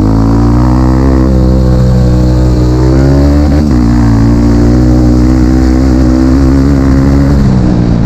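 Dirt bike engine running loud under way, its pitch easing down over the first few seconds, breaking briefly about three and a half seconds in, then holding steady before dropping near the end as the throttle comes off.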